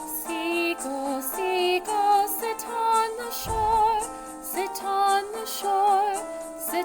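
A woman singing a gentle children's song with vibrato, each sung note about half a second to a second long, over a steady instrumental accompaniment. A brief low thump about halfway through.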